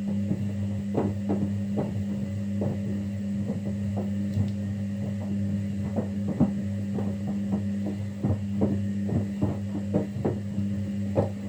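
Kunft washing machine running a wash cycle: a steady motor hum as the drum turns, with irregular short knocks throughout.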